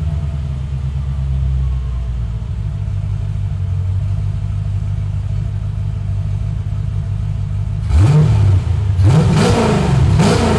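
Chevrolet Corvette C4's 5.7 L V8 idling steadily through a new exhaust with FLOWCHASER mufflers and a high-flow catalytic converter. Near the end it is blipped up and back down in quick revs, about three times.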